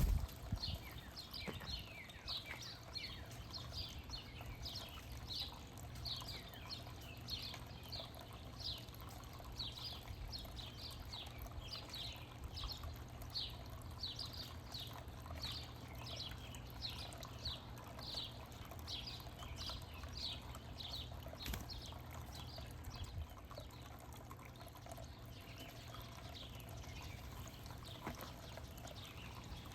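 A songbird singing a long series of short, down-slurred whistled notes, about two a second, which fade out about two-thirds of the way through. A steady low hum runs underneath.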